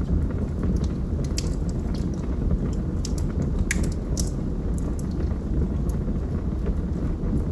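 Wood fire burning in a fireplace: a steady low rumble with scattered sharp crackles and pops, a few a second.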